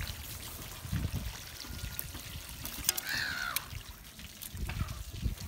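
Water running and trickling from a hose over the fish-cleaning surface, with a few light knocks. A bird gives one call that falls in pitch about three seconds in.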